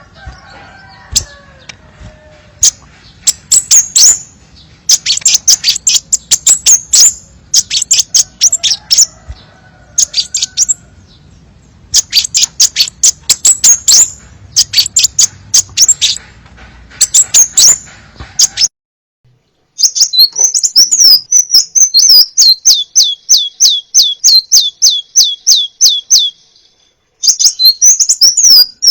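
Crimson sunbird (sepah raja) song: bursts of high, rapid chirping notes with short pauses between. About two-thirds of the way through it breaks off briefly and gives way to a clean run of quick notes, each sliding down in pitch, several a second.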